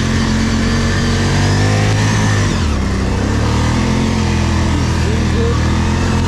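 ATV engine running under throttle, its pitch dropping about two and a half seconds in as the throttle eases, then running on steadily at lower revs.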